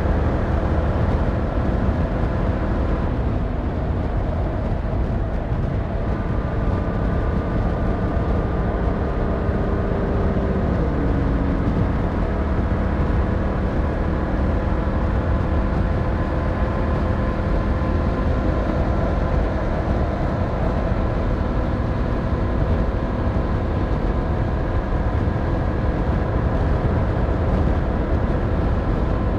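Yamaha MT-07's 689cc inline-twin engine running steadily under way. Its pitch drops about ten seconds in, then holds at the lower speed.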